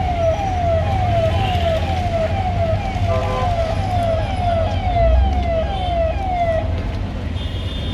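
A vehicle siren sounding a fast repeating falling wail, about two cycles a second, over a low engine rumble. It stops near the end.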